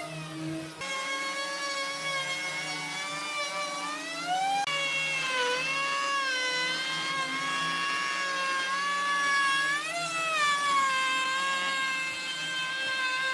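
High-speed electric power tool motor whining, its pitch dipping and recovering as the tool is pressed into the wood and eased off.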